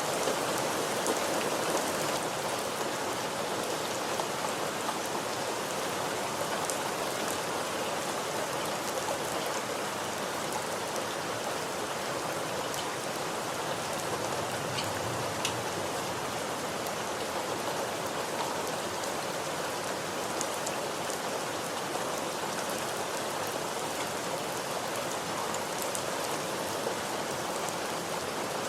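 Steady rain falling, an even hiss with scattered sharp ticks of individual drops landing on a surface.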